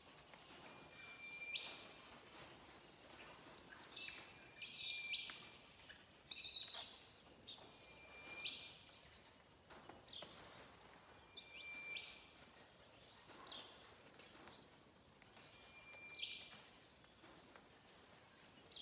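A bird calling over and over, about five times and roughly every three and a half seconds: each call is a held whistled note that jumps abruptly to a higher one. Faint scrapes and clicks of barbed wire being wound onto a wire ball frame sit underneath.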